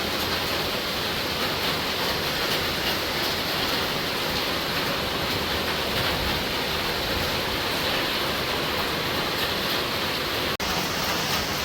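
Heavy rain pouring down steadily, a dense, even hiss. The sound drops out for an instant about ten and a half seconds in.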